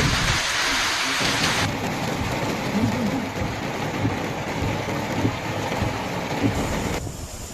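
Heavy rain in a thunderstorm: a steady hiss of rain with a low rumble underneath. The sound changes abruptly, becoming duller about one and a half seconds in and quieter near the end.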